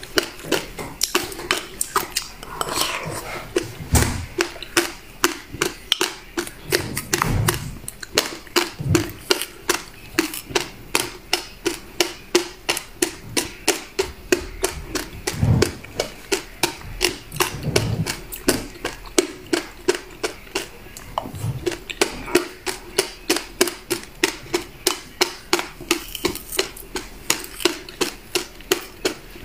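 Close-miked chewing of passion fruit pulp and seeds: crisp crunches, about three a second, with a few soft low mouth thumps between them.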